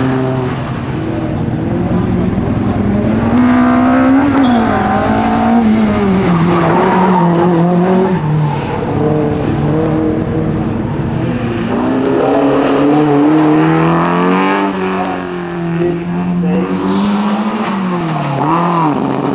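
Car engines revving hard and backing off as the cars weave through a cone slalom, the pitch climbing and dropping again and again, with a quick drop and recovery near the end.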